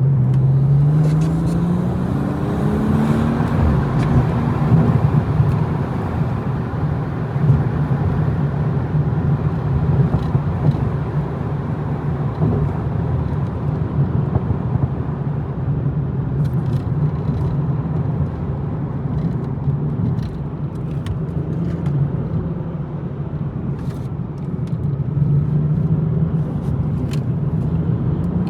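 BMW M240i's turbocharged 3.0-litre straight-six under way on a winding road. Its pitch rises over the first few seconds as the car accelerates, then it holds a steady drone with road noise, and there are a few short clicks along the way.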